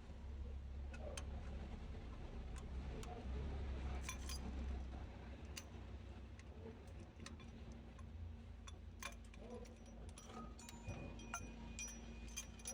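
Light metal clicks and clinks at irregular intervals over a steady low hum, as of hand tools and parts being handled.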